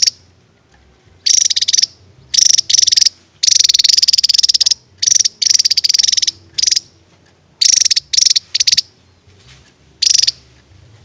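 Javan tesia singing its rapid-fire 'tembakan' phrases: high, fast rattling trills in about a dozen bursts, most short and a couple over a second long, separated by brief pauses.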